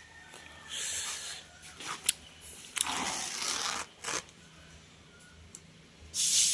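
Compressed air hissing in short bursts, with a few sharp clicks between them; a louder, longer hiss begins near the end.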